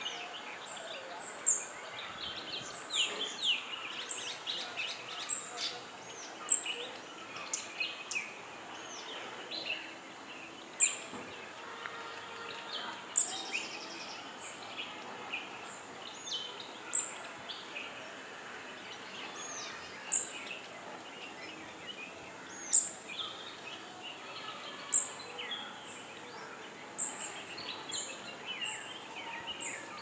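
Songbirds chirping and calling, many short notes throughout, with a sharp high chirp repeating every couple of seconds over a steady hiss of outdoor background.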